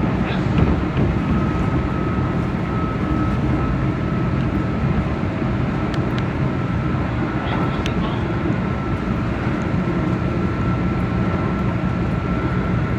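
Keihan limited express electric train running steadily, heard from the driver's cab: a continuous low rumble of wheels on rail with a steady high whine over it and a few faint clicks.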